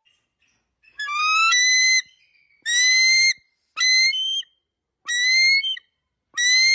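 An animal giving a series of high-pitched, whistle-like calls, about one a second, each rising slightly in pitch.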